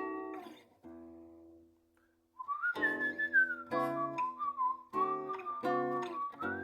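Acoustic guitar chords strummed and left to ring, with a single high wavering tone entering about two and a half seconds in. The tone rises, then slides down and holds, carrying a melody over the chords.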